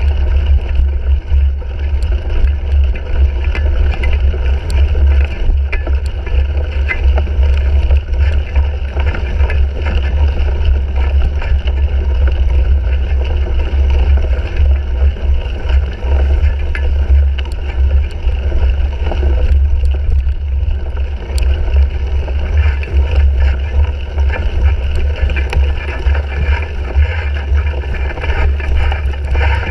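Wind buffeting and riding vibration picked up by a bike-mounted GoPro Hero 3: a constant heavy rumble with a haze of tyre and wind noise and many small rattling clicks as the cyclocross bike goes over rough ground.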